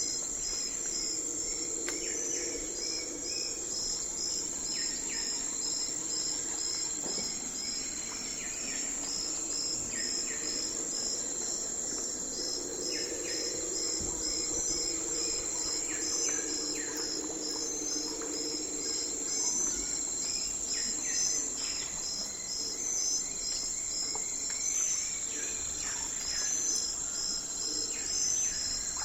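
Night forest ambience: insects keep up a steady high-pitched trill with a pulsing chirp over it, about two pulses a second. Short calls come and go, and a low hum swells up for a while in the first half.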